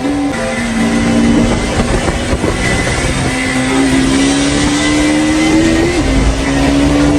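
Single-cylinder 200 cc sport motorcycle engine pulling under acceleration, its pitch climbing steadily, then dropping suddenly about six seconds in at an upshift before it climbs again.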